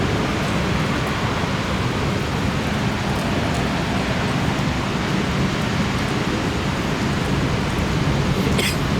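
Heavy thunderstorm rain falling steadily in a dense, even hiss, with a brief sharp crackle near the end.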